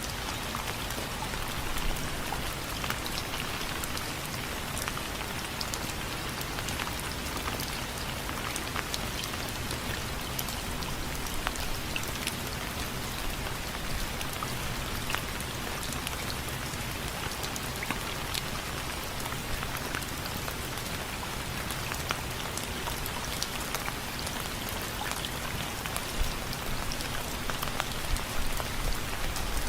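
Steady rain with many separate drops ticking on a window frame.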